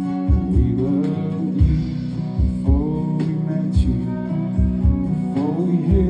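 A live band playing a slow country-style song, with guitar over a steady low beat of bass and drum hits and notes that slide in pitch.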